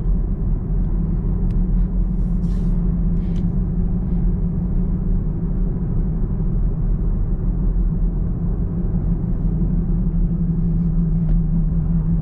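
2021 Camaro SS's 6.2-litre V8 droning steadily at a constant cruise, holding one pitch, over a heavy low road and tyre rumble inside the car's cabin.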